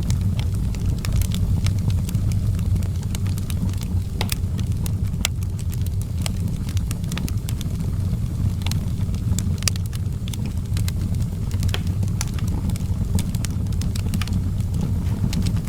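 Wood fire burning in an outdoor fireplace, crackling with frequent irregular sharp pops over a steady low rumble.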